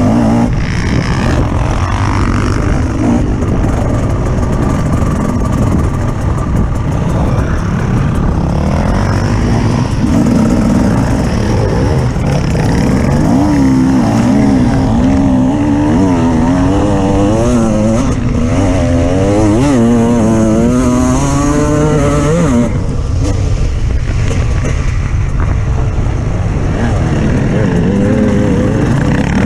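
Off-road vehicle engine running over a steady low rumble. In the middle stretch its pitch rises and falls quickly, again and again, as the throttle is worked.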